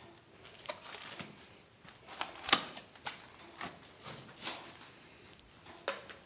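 Irregular knocking and tapping of unclear origin: about eight sharp knocks at uneven intervals, the loudest about two and a half seconds in.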